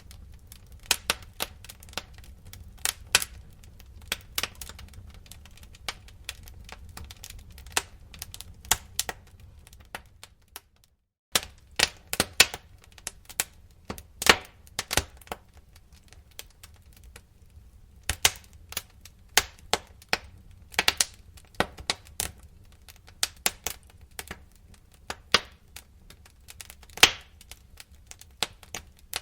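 Wood fire crackling in a fireplace: irregular sharp pops and snaps over a low steady rumble. The sound cuts out briefly about eleven seconds in, then the crackling resumes.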